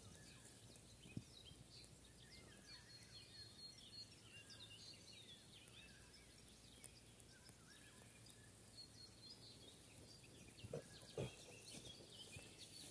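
Faint birdsong: many small birds chirping in short, quick notes over a quiet outdoor background, with a few soft knocks about a second in and again near the end.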